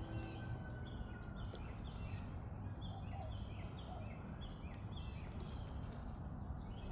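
A small bird chirping repeatedly in a quick series of short, high, slightly falling notes, over a steady low background hum of outdoor noise.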